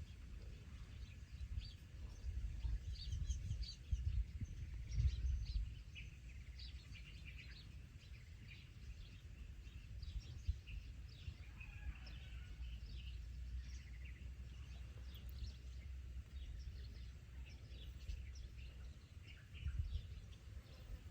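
Small birds chirping, many short high calls scattered throughout, over a low rumble that is heavier in the first few seconds and again near the end.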